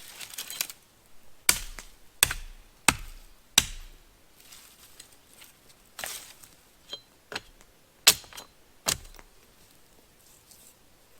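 Sharp strikes of a tool on wood: four in quick succession, then three more spaced out near the middle and later.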